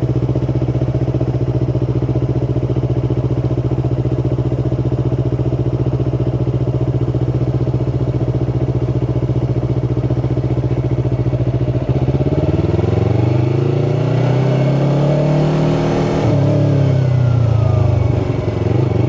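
Yamaha R3's parallel-twin engine idling steadily for about twelve seconds, then revving as the bike pulls away, its pitch rising, falling back and rising again near the end.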